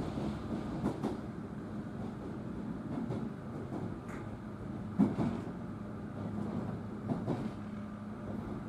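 Inside a JR 103 series electric train running: a steady rumble of wheels on rail with a steady hum, and a short knock from the track about every two seconds, the loudest about five seconds in.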